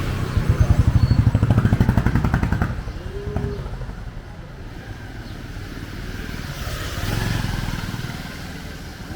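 A motorcycle passes close, its engine pulsing fast and loud for the first two or three seconds before fading. A second vehicle swells past about seven seconds in.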